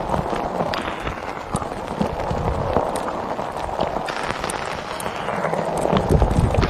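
Heavy rain, a dense steady hiss with scattered sharp taps and knocks. A louder rush of hiss comes about four seconds in, and heavier thumps near the end.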